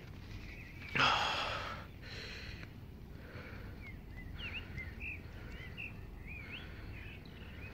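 Small birds chirping: a run of short calls that swoop up and down in pitch, starting about three and a half seconds in, over a faint steady low rumble. About a second in, one loud, brief rasping noise stands out.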